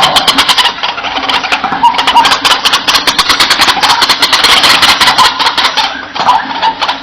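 White-breasted waterhen calling: a loud, fast run of repeated notes, easing off about six seconds in.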